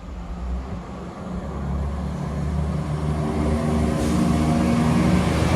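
Diesel passenger train approaching. Its engine note and rail noise grow steadily louder as it draws near.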